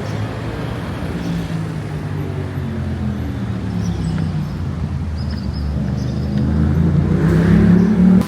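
Road vehicle engine running steadily with traffic noise, growing louder and slightly higher over the last two seconds, then cutting off suddenly.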